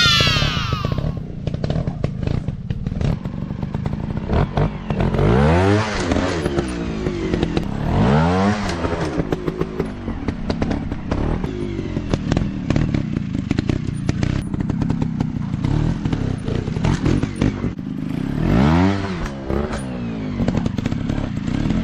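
Dirt bike engine revving up and down repeatedly, with the clearest rises and falls about five, eight and nineteen seconds in, over a rapid run of clatter and knocks.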